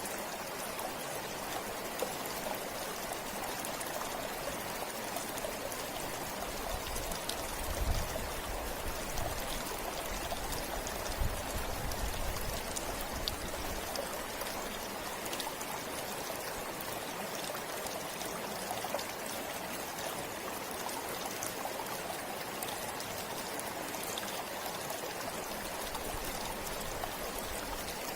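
Forest river flowing steadily, an even rush of water. A low rumble comes and goes about a quarter to halfway through.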